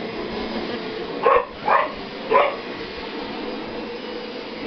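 Vizsla puppy barking three times in quick succession, about a second apart, at a running vacuum cleaner. A steady hum from the vacuum runs underneath.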